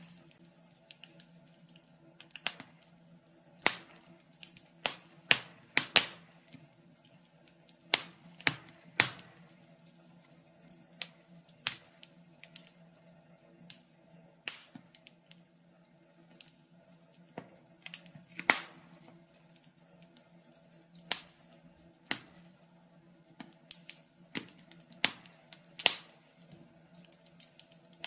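Burning logs in a fireplace crackling: irregular sharp pops and snaps, a few every couple of seconds, over a faint steady low hum.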